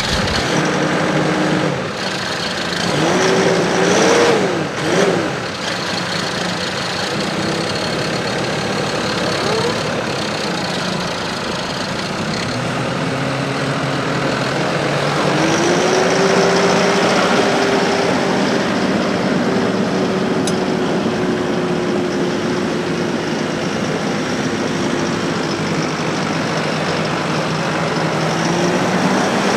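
New Holland T4.100's four-cylinder turbo diesel engine running. It is revved in short blips a few seconds in, then brought up to a higher, steady speed about halfway through and let back down near the end.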